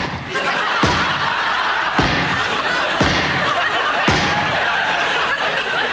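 A series of explosion sound effects, four bangs about a second apart, as the chickens that swallowed nitroglycerin-soaked corn blow up one after another. A studio audience laughs throughout.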